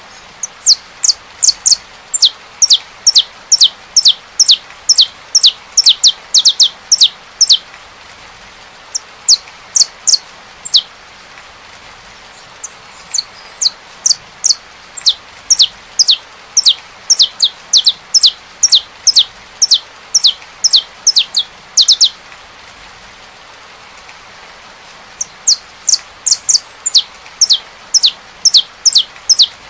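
Saffron finch singing: runs of quick, sharply falling whistled notes, about three or four a second, in three long bursts with short pauses between, over the steady hiss of rain.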